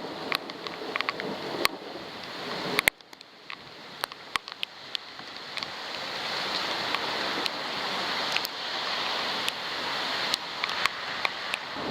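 Wind-driven rain hiss, with raindrops striking the waterproof camera's housing as sharp ticks. The sound drops suddenly about three seconds in, then builds steadily louder.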